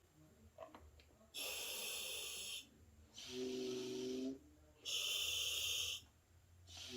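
Breathing through a diving regulator on compressor-fed hookah air. There are two breaths, each a hissing inhalation followed by an exhalation with a steady buzzing tone through the exhaust valve.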